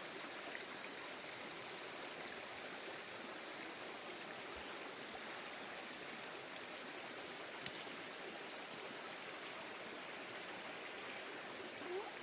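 Stream water rushing steadily over rocks, an even unbroken flow, with a constant thin high-pitched tone above it.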